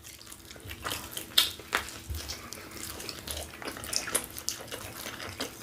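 Close-miked eating: wet chewing and lip smacks, a run of short irregular clicks and squelches.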